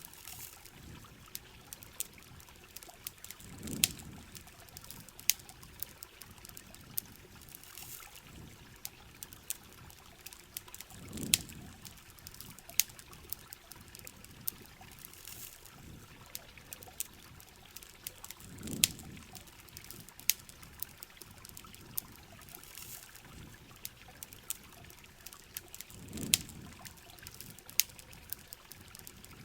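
Heavy rain falling steadily with a campfire crackling: many sharp ticks and pops over an even hiss of rain. A short low swell repeats about every seven and a half seconds.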